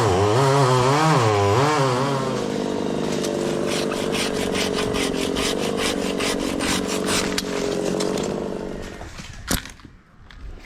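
Chainsaw revving unevenly, then running steadily as it cuts through wood. It stops about nine seconds in, followed by a single sharp knock.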